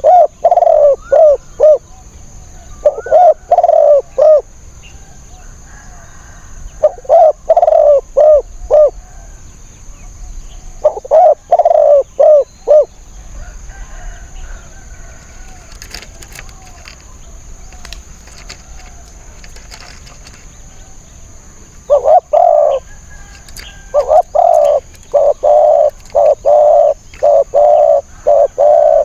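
Spotted doves cooing loudly in short phrases of three to five low coos every few seconds, then a longer unbroken run of coos near the end.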